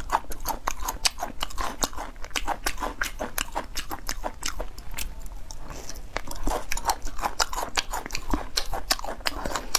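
Close-miked mouth chewing and biting of spicy dried meat strips: a rapid, continuous run of wet clicks and soft crunches, several a second, the meat chewy rather than crisp.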